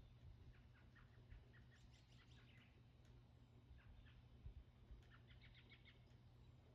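Faint bird chirping in two short runs of quick chirps, over a low steady hum.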